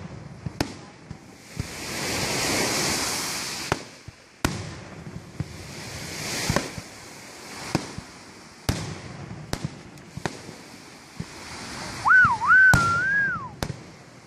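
Consumer fireworks going off: a string of sharp, unevenly spaced bangs and cracks, with a long hiss about two seconds in. Near the end comes a loud whistle that wavers up and down in pitch.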